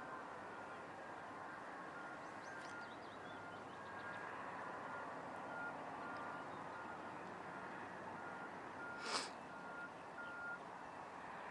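An electronic warning beeper sounds steadily, about two beeps a second, over a constant mechanical rumble of heavy mine machinery, and stops shortly before the end. A single sharp knock comes about nine seconds in.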